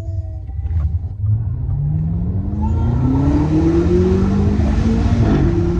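BMW M8 Competition's twin-turbo V8 accelerating hard under a deep rumble, its note rising steadily for about three and a half seconds. The pitch drops at an upshift near the end and then holds steady.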